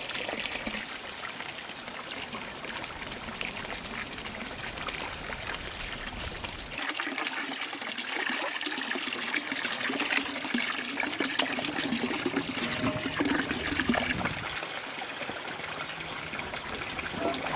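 Running water trickling steadily, with scattered light clicks and knocks.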